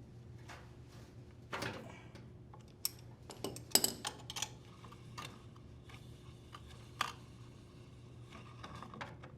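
Socket ratchet and wrench working on a GE dryer's blower wheel: scattered metal clicks and clinks, with a short run of ticks about four seconds in, as the wheel is loosened off the motor shaft.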